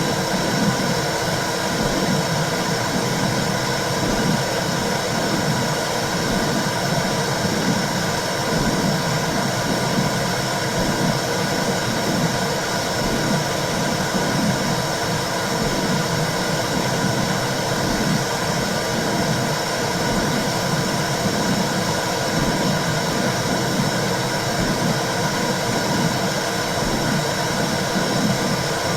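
Womb sound: a steady, dense whooshing hiss with a low, regular pulsing underneath, like blood flow and a heartbeat heard from inside the uterus.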